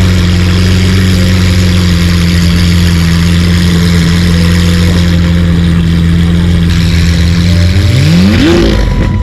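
Car engine idling steadily with a deep hum, then one short rev near the end whose pitch rises and falls back.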